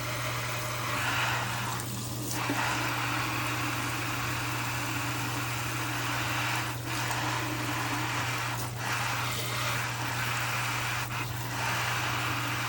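Kitchen tap water running steadily into the sink, an even rushing noise.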